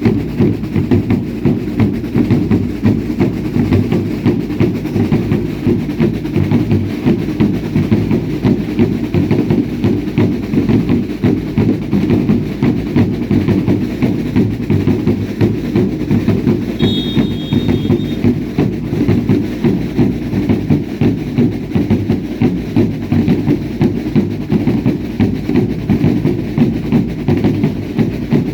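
Drums of a baile indio dance group beating a steady, fast, even rhythm. A brief high tone sounds about seventeen seconds in.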